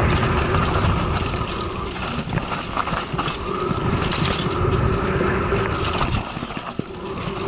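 Mountain bike running fast over a rough, rocky trail: a constant rumble of tyres on the ground with quick, irregular rattling and knocking from the bike over the bumps.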